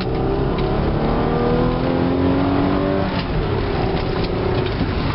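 Toyota 1MZ-FE V6 accelerating hard under full throttle from inside the cabin. The engine note rises steadily for about three seconds, drops at an automatic upshift, then pulls on.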